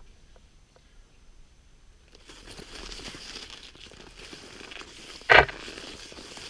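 Crinkling, crunching noise that starts about two seconds in, with one sharp, loud crunch about five seconds in.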